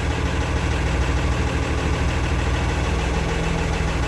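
International 986 tractor's six-cylinder turbo diesel engine idling steadily.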